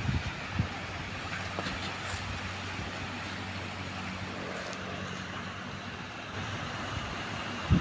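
Strong wind blowing ahead of a storm, a steady rush with a few low buffeting thumps on the microphone near the start and a loud one at the end.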